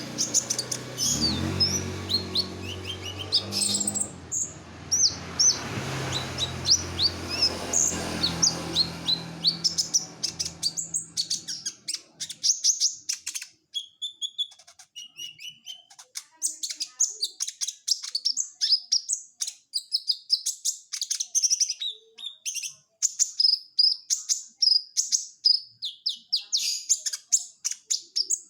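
Olive-backed sunbird (kolibri ninja) singing a fast, high-pitched stream of chirps and trills without pause. A low hum runs underneath for the first twelve seconds or so, then stops.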